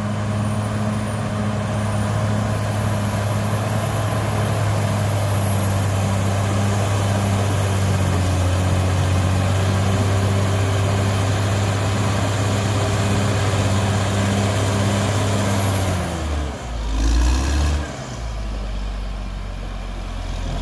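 Cat D6R XL bulldozer's diesel engine running steadily under load, with a thin high whine over it. About sixteen seconds in the whine stops and the engine note drops and wavers briefly before steadying again.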